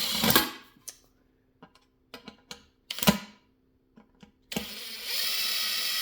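Power driver motor running briefly, then small clicks and knocks of screws and fan parts being handled, with one loud clack about three seconds in. The driver starts running again about four and a half seconds in and keeps going.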